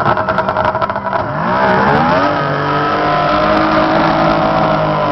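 30 hp outboard motor on a tunnel-hull racing boat running at low speed with a pulsing beat, then opened up about a second in: its pitch climbs over about a second and holds steady at high revs.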